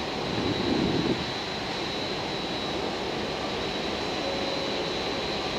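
Steady rumble of an EF65 electric locomotive and its rail-carrying flat wagons rolling slowly toward the listener, with a brief louder swell about a second in and a steady high-pitched whine throughout.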